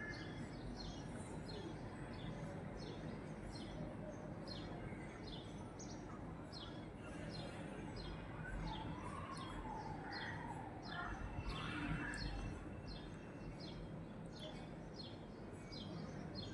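A small bird chirping over and over, about two short falling chirps a second, over a low steady background noise.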